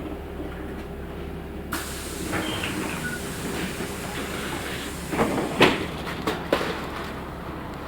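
Compressed air hissing on a LiAZ 6213.65 articulated bus, starting suddenly about two seconds in, over the steady sound of the bus. A few sharp knocks and clatters follow in the second half.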